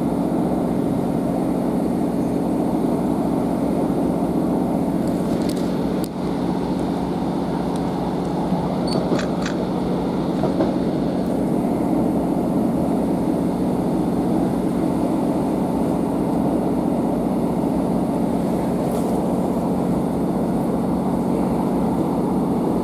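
Steady drone inside a Northern Class 150 Sprinter diesel multiple unit under way, from its underfloor diesel engines and wheels on the rails, with a few brief clicks.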